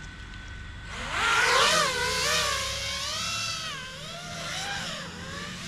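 FPV quadcopter's brushless motors whining, the pitch rising and falling again and again as the throttle changes. The whine swells in about a second in.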